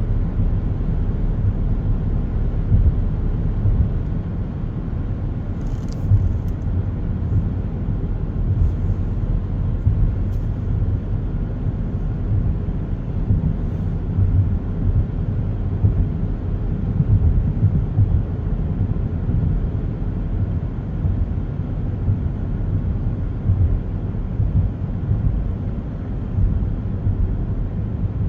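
Steady low rumble of a car driving, road and engine noise heard inside the cabin, with a few faint clicks about six and ten seconds in.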